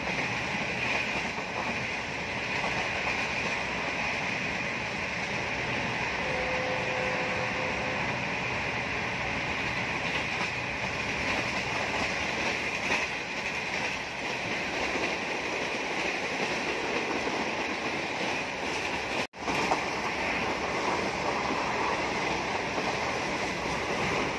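Subak Raftar railcar train running along the track: a steady rush of wheel, rail and wind noise. It cuts out for an instant about three-quarters of the way through.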